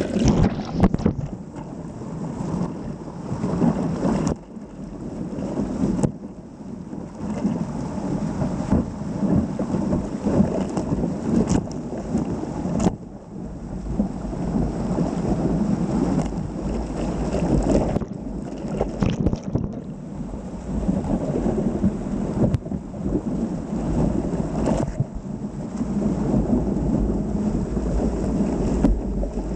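Whitewater rapids rushing around a surfing kayak: a continuous deep, rumbling rush of moving water, with sharp splashes every few seconds.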